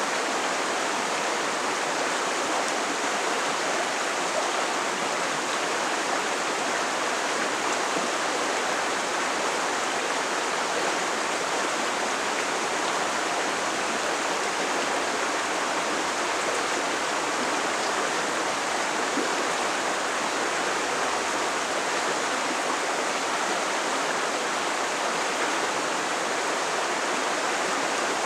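A creek rolling and rushing over rocks: a steady, unbroken sound of flowing water.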